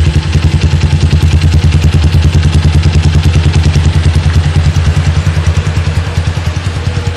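Motorcycle engine idling through a custom-built aftermarket muffler, a loud, even, rapid pulse after a rev has dropped back, slowly easing toward the end. The phone recording distorts on the loud exhaust.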